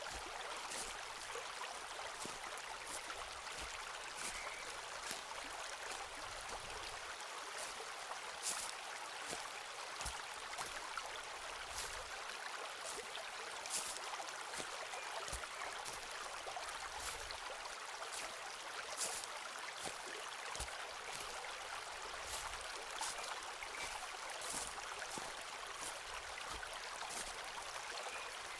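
Footsteps walking along a forest path, each step a short crunch, about one to two a second, over a steady rushing background like a stream.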